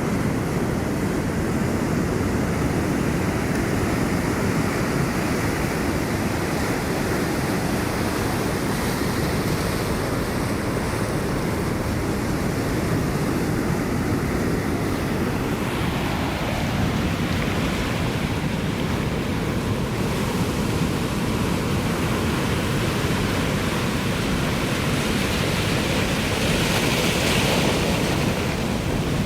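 Ocean surf: a continuous rush of waves breaking and washing in, with a brighter hissing wash swelling up near the end.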